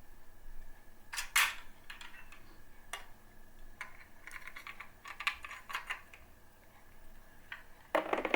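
Scattered light clicks and taps of a metal CPU-cooler backplate and a motherboard being handled and pressed together, the sharpest knock about a second and a half in and a run of small clicks a few seconds later.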